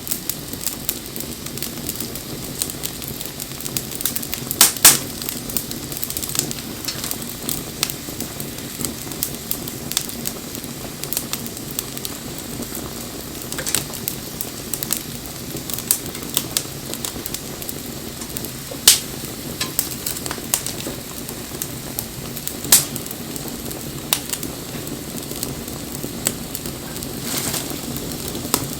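Bonfire crackling steadily, with frequent sharp pops and a few louder snaps.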